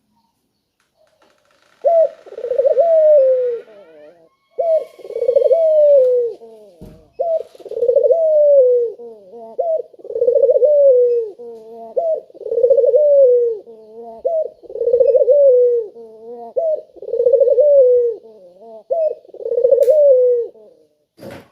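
Puter dove cooing, a loud low coo repeated about eight times at an even pace of one every two seconds or so, each phrase ending in a falling roll.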